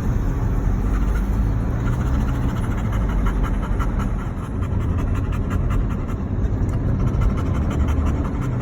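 Black Labrador panting rhythmically over a steady low rumble.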